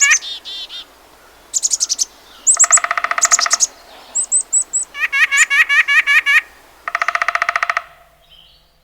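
Birdsong: a run of varied phrases, some fast trills and some quickly repeated chirps, one after another. It stops just before the end.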